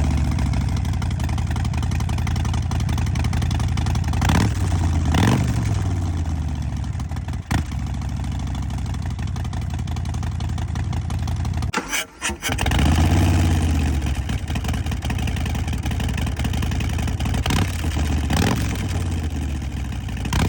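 An engine idling steadily, with a few short rises in pitch. It cuts out for a moment about twelve seconds in and starts running again.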